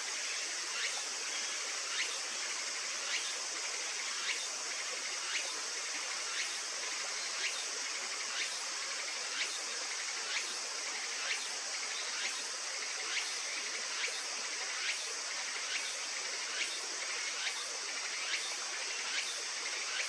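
Insect chorus: a steady high-pitched shrill, with one insect giving a short sharp chirp about once a second, the chirps quickening slightly as it goes on.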